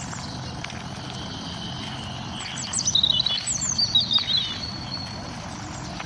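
Wild birds singing in the morning: about halfway through, a quick, jumbled burst of high chirps and trills stands out over a steady low background rumble.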